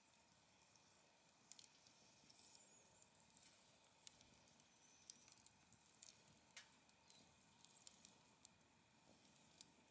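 Wood fire crackling faintly, with scattered small pops and snaps at irregular intervals.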